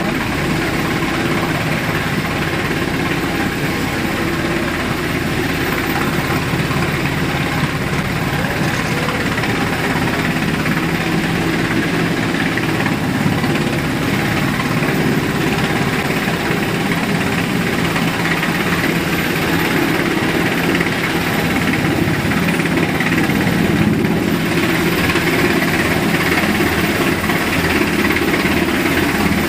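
Helicopter hovering close by, its turbine and rotor making a loud, steady noise heard through a glass door, growing slightly louder near the end.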